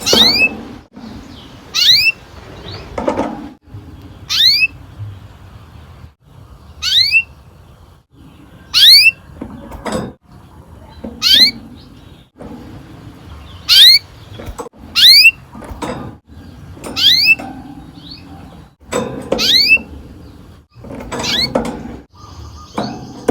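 Domestic canary giving short, sharp downward-sweeping call notes, about one every two seconds, each with a dull low thump under it.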